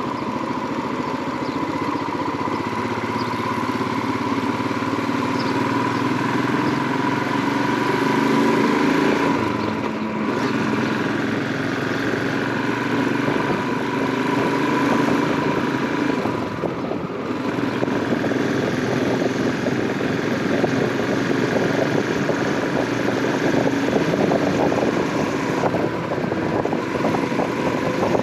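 Royal Enfield Himalayan 411's single-cylinder engine running under way. Its note rises and falls with the throttle and eases off briefly about ten seconds in and again about seventeen seconds in.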